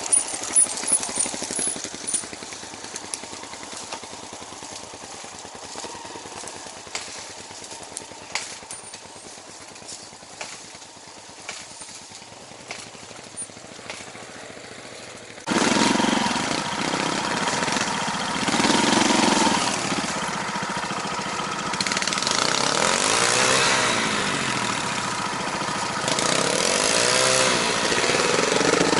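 Scattered light clicks and ticks over a quiet background, then about halfway through a vehicle engine comes in abruptly and runs loudly, its pitch rising and falling with the throttle.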